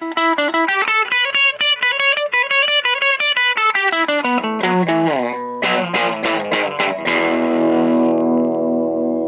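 Chapman ML3 Modern electric guitar played through a Vox Lil Night Train 2-watt tube amp: a fast run of picked single notes that steps downward, a few hard-struck chords about five to seven seconds in, then a chord left ringing. The harder the strings are hit, the more the tube amp breaks up.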